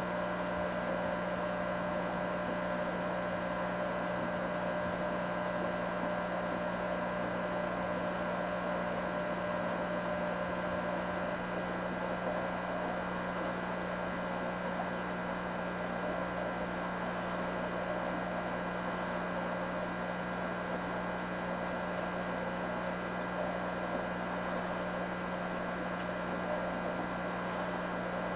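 Steady, unchanging hum of running aquarium equipment, with a low drone and a fainter higher tone over a soft hiss.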